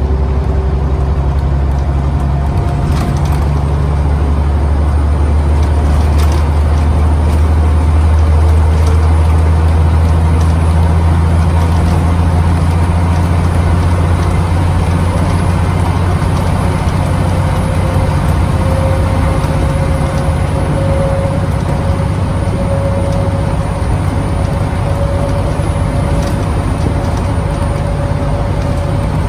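Scania CN94UB OmniCity bus's diesel engine pulling hard in a steady drone as the bus builds up to its top speed, heard from on board. A higher whine climbs slowly through the second half as the road speed rises.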